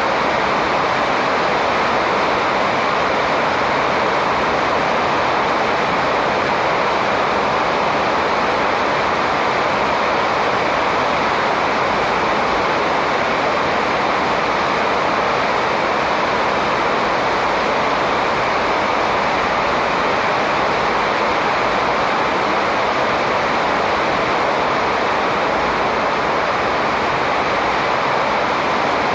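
Steady rushing noise, even and unbroken, with no bird calls standing out.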